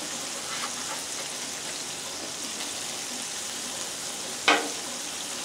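Ground-beef smash burger and sliced onions sizzling steadily on a hot Blackstone flat-top griddle. A short sharp sound comes near the end as the spatula works the patty.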